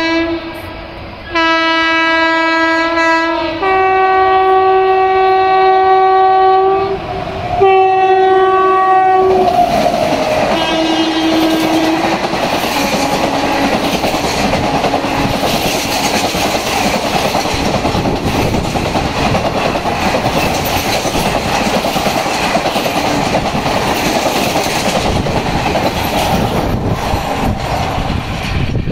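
Indian Railways WAP7 electric locomotive's horn sounding in several long blasts as the train approaches, the pitch dropping as the locomotive passes about ten seconds in. Then the passenger coaches rush past at speed, wheels clattering over the rail joints, until near the end.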